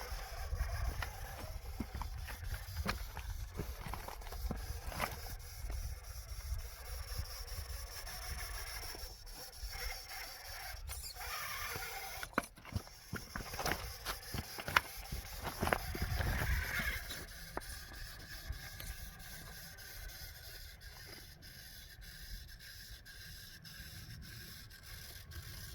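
Radio-controlled rock crawler driving over snow-covered rocks: its electric motor whines in short pulls while tyres and chassis scrape and click on rock and snow, struggling for traction, over a low rumble of wind on the microphone.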